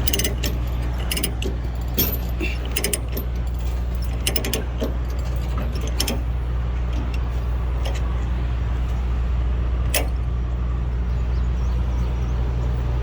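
Semi truck idling steadily, with scattered sharp metallic clicks and clinks as a loose load chain's binder is ratcheted tight a notch or two.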